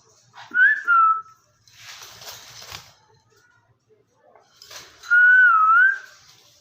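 Two clear whistled phrases, each about a second long, the pitch sliding up and then down around one note. A short breathy hiss falls between them.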